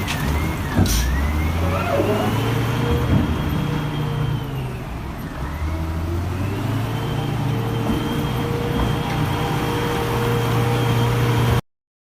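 Vehicle engine running, its pitch shifting up and down as it works, with a thin high tone that dips and rises twice. It cuts off abruptly about half a second before the end.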